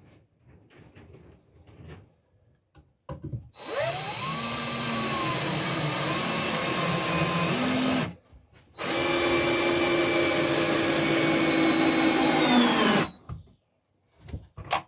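Electric power saw run twice, each time for about four seconds, cutting wood. The motor speeds up at the start of each run and winds down at the end.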